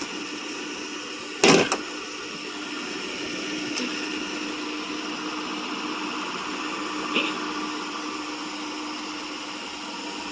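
Jeep Grand Cherokee running with the air conditioning on high: a steady whirring hum with a low tone under it. A sharp double clack comes about a second and a half in, and lighter clicks follow later.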